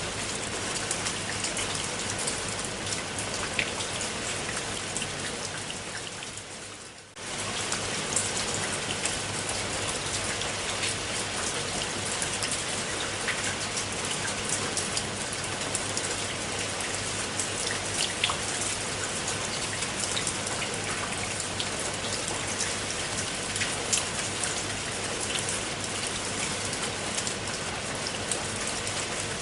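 Steady rain falling on a pool of water, a dense hiss dotted with individual drop splashes. About five seconds in it fades down, then it comes back suddenly about two seconds later.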